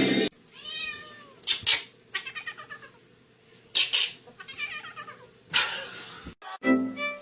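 A domestic cat meowing and yowling in a string of short calls, some gliding up and down in pitch.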